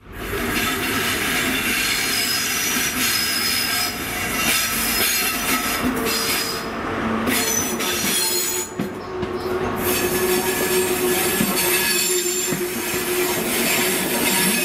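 A GWR High Speed Train's Mark 3 coaches roll slowly past along the platform, wheels squealing against the rails. A steady mid-pitched tone joins the squeal about ten seconds in.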